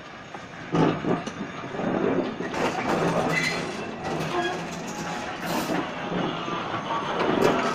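Vintage passenger coaches rolling past close by. Their wheels clatter over the rail joints. The sound grows sharply louder about a second in.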